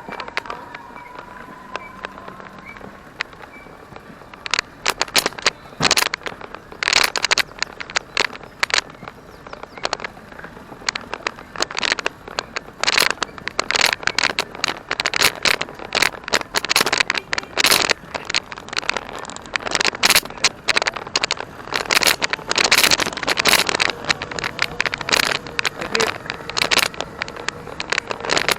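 A small electric vehicle in motion, its motor giving a faint whine that rises slightly in pitch. From about four seconds in, a dense, irregular run of loud crackles and scrapes takes over.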